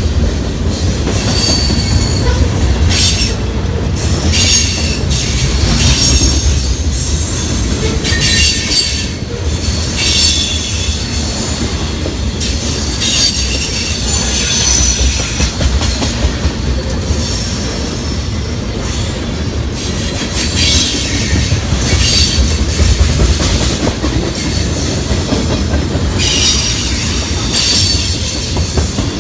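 Freight train's covered hoppers and tank cars rolling past close by: a steady low rumble of steel wheels on rail, with high-pitched wheel squeal rising and fading every few seconds.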